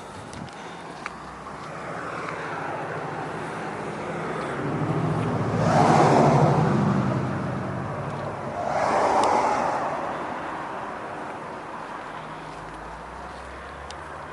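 Road traffic passing: two vehicles swell up and fade away, the louder about six seconds in and the next about nine seconds in, over a steady low hum.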